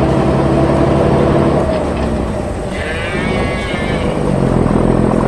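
Truck engine running steadily, its hum shifting about two seconds in, with a brief high wavering sound near the middle.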